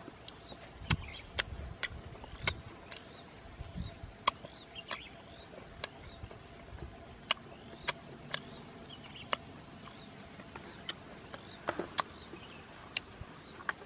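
Close mouth sounds of chewing: irregular sharp clicks and smacks, a few a second, from eating grilled scorpion or spider.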